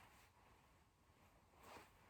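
Near silence: faint room tone, with one soft, brief noise near the end.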